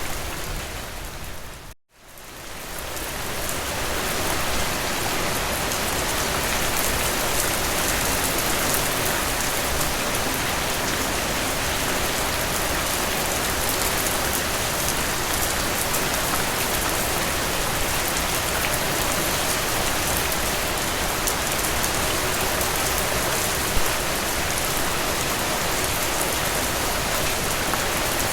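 Heavy rain falling steadily. About two seconds in, the rain fades out to a moment of silence and swells back up over the next two seconds, as at an edit or loop join.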